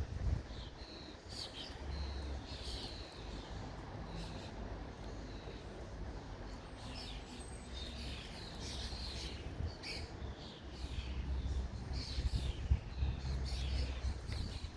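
Small birds chirping and twittering in many short calls, over a low rumble of wind on the microphone.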